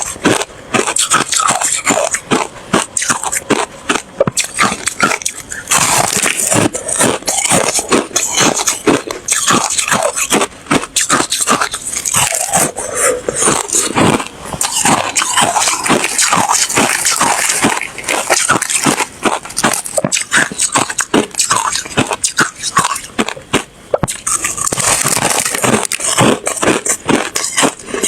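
A person biting and chewing ice: loud, rapid crunching, many cracks a second, with a few brief pauses.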